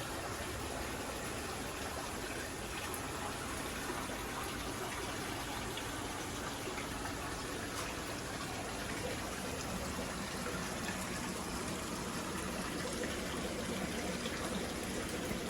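Steady trickle and rush of water circulating in a large home aquarium, as from its filter return.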